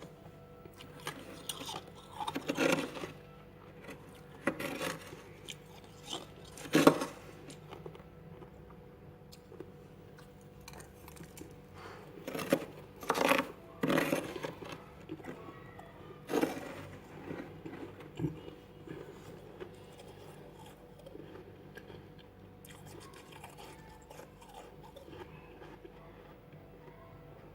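Freezer frost being bitten and chewed: a series of sharp, crunchy bites, about seven in the first half, then quieter chewing.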